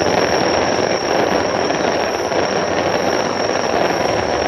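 A hand-held firework or spark fountain burning with a loud, steady hiss of spraying sparks.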